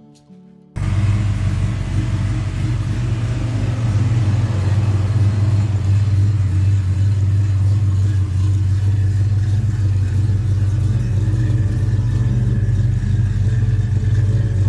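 A 1967 Dodge Dart GT's V8 engine, a 340 bored out to 360 cubic inches, running at a steady, low, even level. It cuts in abruptly just under a second in, replacing a few notes of guitar music.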